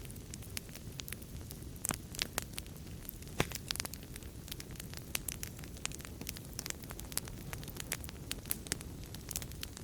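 Wood fire in a fireplace crackling: a steady low rumble of the flames under frequent irregular snaps and pops, a few louder pops near the middle.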